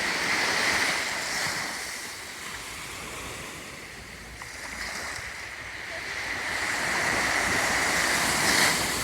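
Black Sea waves breaking and washing up the shore, the surf swelling near the start, easing off, then building again near the end.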